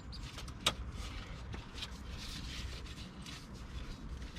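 Hand-tool work in a car's engine bay: a sharp click about two-thirds of a second in, then faint scraping and handling noises over a low background rumble.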